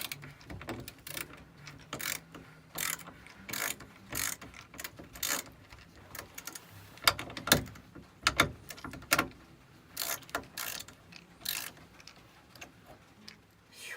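Hand ratchet clicking through repeated short strokes as large screws are backed out by hand, roughly one to two strokes a second, with a couple of sharper clacks about seven seconds in.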